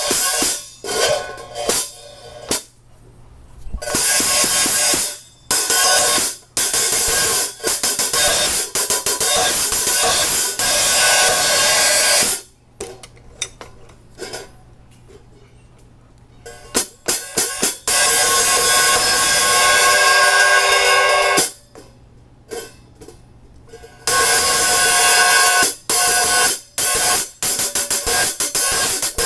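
13-inch hi-hat pair with a repaired Zildjian A Mastersound bottom cymbal, its small cracks around the hammer marks cut out, being struck in a sound test. Short clipped strokes alternate with long ringing washes, with a few brief pauses between passages.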